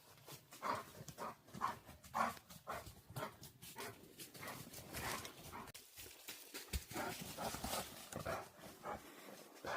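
A dog making a quick run of short, repeated sounds, about two or three a second, some louder than others.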